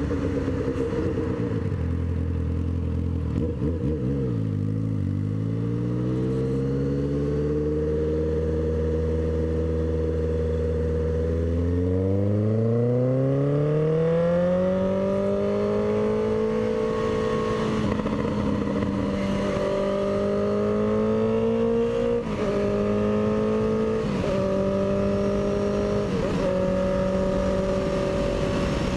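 Honda CB650F inline-four motorcycle engine under way: its pitch climbs twice as it accelerates, holding steady between, and in the second half it dips briefly several times before settling into a steady run.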